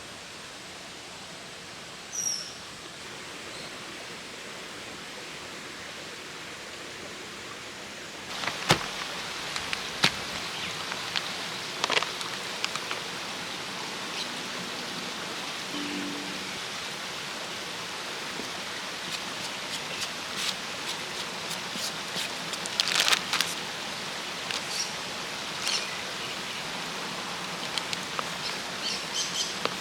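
Steady rush of a nearby stream, with a short high bird chirp about two seconds in. From about eight seconds in the water is louder, with scattered sharp clicks and knocks over it.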